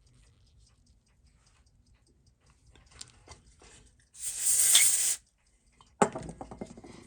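Small parts and tools being handled at a watch bench: faint light ticks, then a hiss lasting about a second. About six seconds in comes a sharp click followed by a short rattle.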